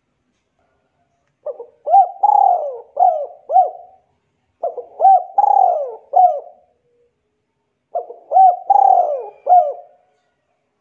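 A bird calling in three phrases, each made of several short, rising-and-falling notes, with brief pauses between the phrases.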